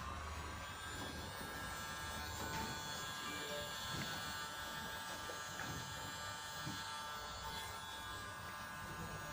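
Eachen WiFi smart blind motor running steadily with an even electric whine as it drives the curtain open.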